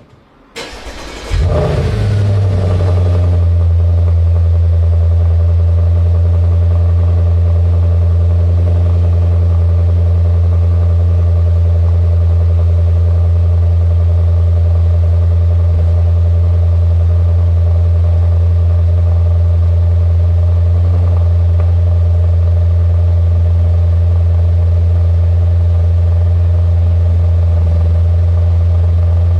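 Audi S5 coupe's 4.2 V8 cold start through an exhaust with a custom X-pipe: the starter cranks briefly and the engine catches about a second in with a loud flare, then settles into a steady, deep cold idle.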